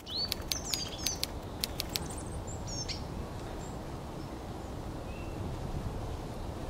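Small birds chirping outdoors: a quick run of sharp calls in the first three seconds and one faint note later, over a steady low rumble of outdoor background noise.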